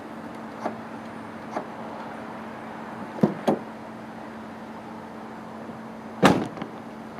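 A steady hum with a few sharp knocks or clunks, the loudest about six seconds in, two close together about three seconds in.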